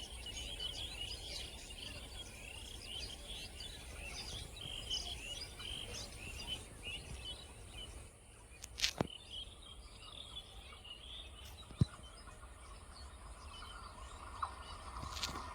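Many small birds chirping and twittering, busiest in the first half and thinning out later, over a steady low rumble. A sharp click about nine seconds in and another near twelve seconds.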